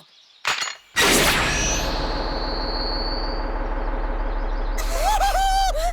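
Cartoon sound effects: a loud rushing noise with a steady low rumble starts suddenly about a second in, with a high whine that fades away. Near the end a short high-pitched cry rises and then holds.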